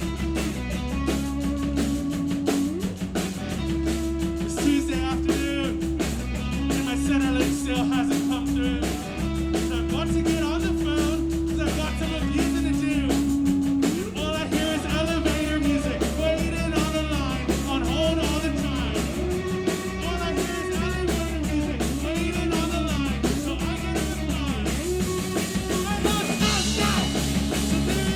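Live rock band playing a fast song: electric guitar, bass guitar and drum kit, with singing at times.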